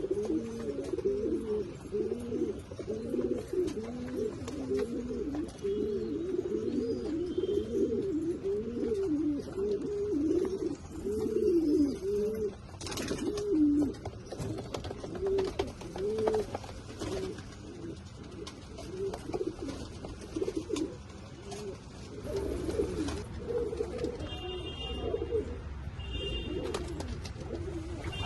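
Domestic pigeons cooing, many low rising-and-falling coos overlapping in a steady run that thins out in the second half. There are a few sharp knocks along the way and some short high chirps near the end.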